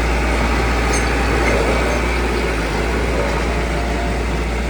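Heavy construction machinery engine running steadily with a deep rumble.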